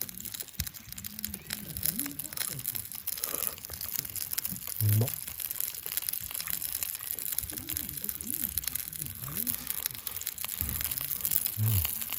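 Wood campfire crackling, with scattered sharp pops.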